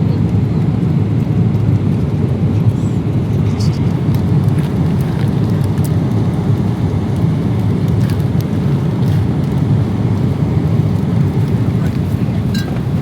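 Steady low rumble of cabin noise inside a Boeing 777-300ER in cruise: engine and airflow noise with no change in level, and a few faint clicks.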